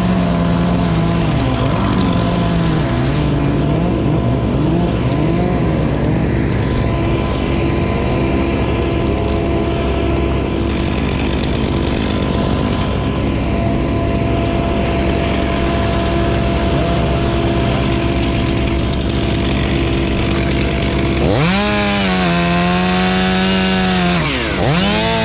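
Chainsaw running, its pitch rising and falling repeatedly as the throttle is worked, over a steady machine drone. About four-fifths of the way through it revs up hard to a high, steady full-throttle pitch, dips briefly and revs up again.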